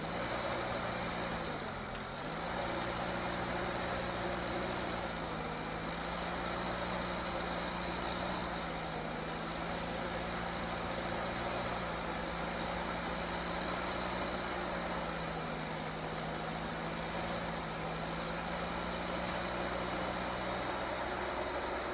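A heavy vehicle's engine running steadily. Its speed drops briefly and picks up again about two seconds in, then holds steady.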